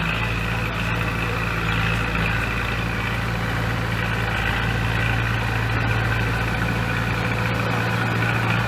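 Heavy construction machine's diesel engine running steadily at an even speed, with no revving.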